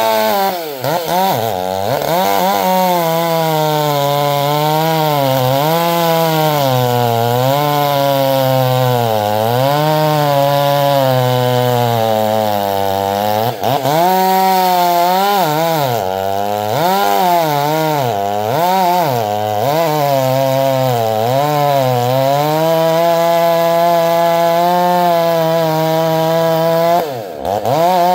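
Chainsaw cutting wood, its engine pitch sagging under load and climbing back again and again, with the throttle briefly let off about halfway through and again near the end.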